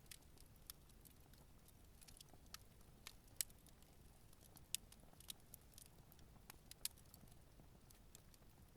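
Campfire burning, its wood giving off faint, irregular crackles and sharp pops over a low steady rumble, with a few louder pops about three and a half, five and seven seconds in.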